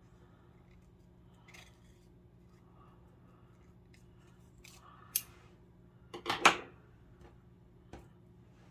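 Scissors snipping paper: a sharp single snip about five seconds in, then a quick cluster of louder snips about a second later, and a faint click near the end.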